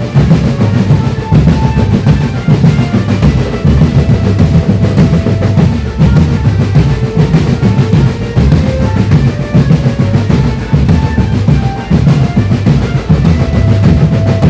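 Indonesian marching drum band (drumband) playing a dance-beat arrangement: a dense, driving rhythm of bass drums and snare drums, with a tune of short notes on top.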